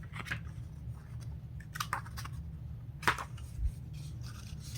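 Paper catalog pages being handled and turned: several short crinkles and rustles, the loudest about three seconds in, over a steady low hum.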